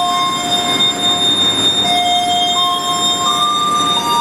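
Passenger train at a station platform: a steady rumble with several high, shrill tones, each held for a second or two before stepping to a new pitch.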